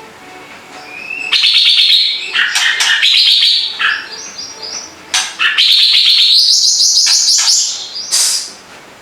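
A cucak ranting songbird singing: after a quieter first second, three loud bouts of rapid chattering song, with trills and notes stepping up and down in pitch.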